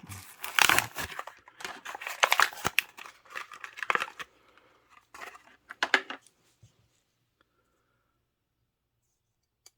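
A Hot Wheels blister card being torn open: the cardboard backing ripping and the plastic blister crinkling, in a quick run of sharp tears and crackles that stops about six seconds in.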